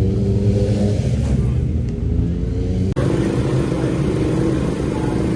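Motorcycle racing engines running steadily, with an abrupt cut about three seconds in to a different engine sound.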